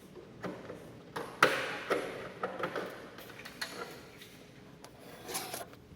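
Irregular clicks, knocks and rustling from hands and tools working on a split air conditioner's indoor unit; the loudest knock comes about one and a half seconds in.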